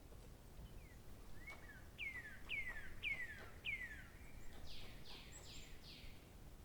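A songbird singing: a run of four clear, falling whistles about half a second apart, then a quicker run of four higher, rougher notes near the end.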